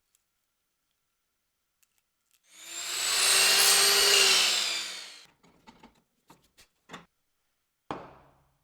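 A power tool cutting or working wood for about three seconds, its sound swelling up and fading away, followed by a few light knocks and a sharper knock near the end.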